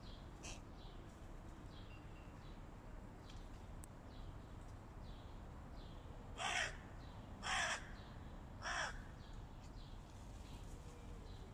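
Hooded crow cawing three times, about a second apart, midway through, with faint high chirps of small birds in the background.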